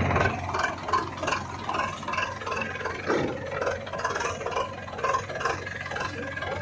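Heavy diesel machinery running, with irregular rattling and clattering over the engine.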